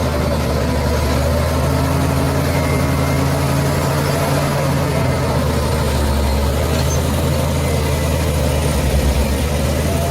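Bulldozer's diesel engine running steadily with a deep, low hum, swelling briefly about nine seconds in.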